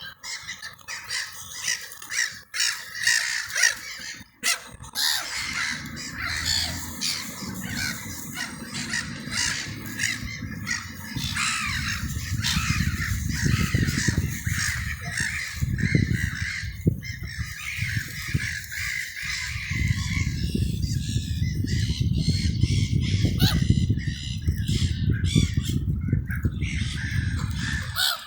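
Many crows cawing and calling over one another, with a steady low rumble underneath from about halfway.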